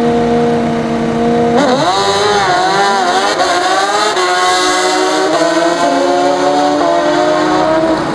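Drag-racing motorcycle engine held at steady revs, then launching about one and a half seconds in. Its pitch climbs and drops back at each of several gear shifts as it runs down the strip.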